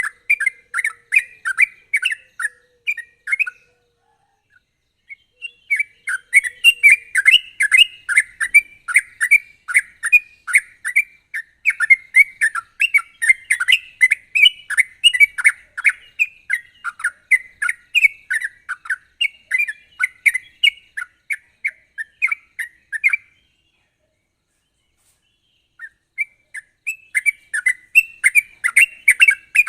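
Yellow-vented bulbul (trucukan) singing in full voice, a fast run of sharp, repeated chirping notes, several a second. The song breaks off twice for a couple of seconds, once soon after the start and again about three quarters of the way through.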